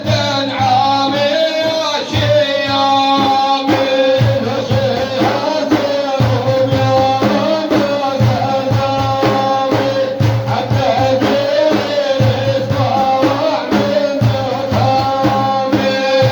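Devotional Middle Eastern music: a male voice holds long, bending melodic notes over a steady drum beat.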